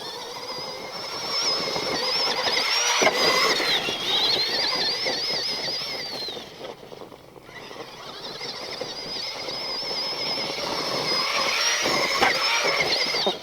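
The brushed electric motor and metal-gear drivetrain of an Axial SMT10 Grave Digger RC monster truck whine as it is driven, the pitch wavering up and down with the throttle. The whine fades about six seconds in, then builds again.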